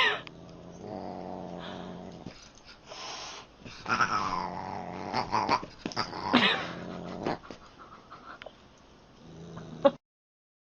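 A cat growling and meowing in several short calls, cutting off abruptly near the end.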